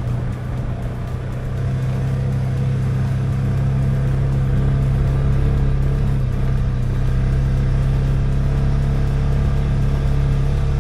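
Polaris Ranger 570 side-by-side's single-cylinder engine running at a steady pace while driving, with a constant drone. It gets a little louder over the first couple of seconds.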